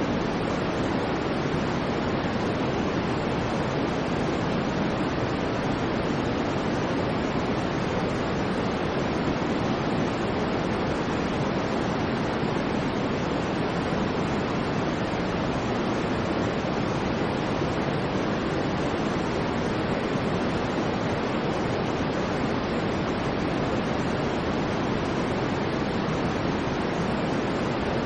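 Continuous white noise for sleep: an even, unchanging hiss, heaviest in the low and middle range and softer in the highs, with no swells or breaks.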